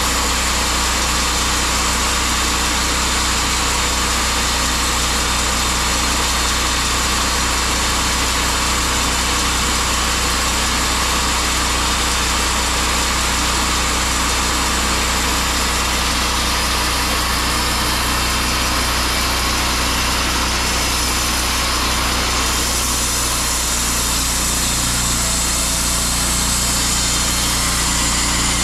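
Sawmill's small gasoline engine running steadily under a constant drone, its low tone shifting slightly about three quarters of the way through.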